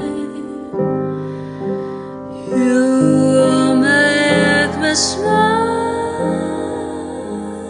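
Music: a woman singing long held notes with slow glides between pitches over a soft accompaniment.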